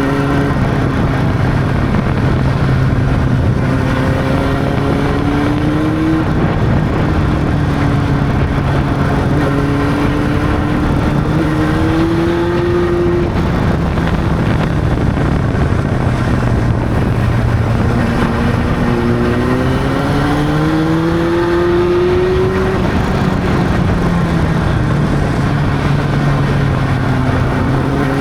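Honda CB600's inline-four engine pulling the motorcycle along. Its pitch climbs steadily, then drops back at a gear change, several times over.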